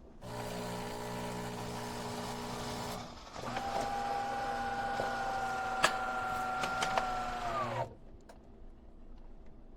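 Fully automatic espresso machine running: a steady hum for about three seconds. Then, from about three and a half seconds, a steady motor whine with a few sharp clicks, which winds down in pitch and stops near eight seconds.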